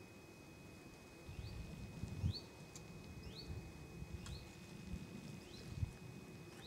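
A small bird repeating a short rising chirp about once a second. Under it runs low rustling in vegetation, with two soft thumps, the louder about two seconds in and another near six seconds.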